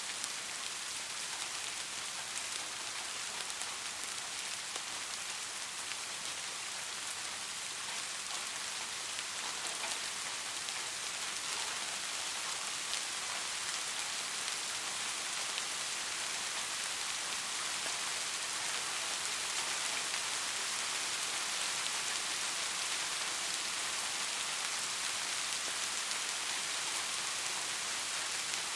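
Steady rain falling on a surface, a dense even hiss flecked with individual drop ticks.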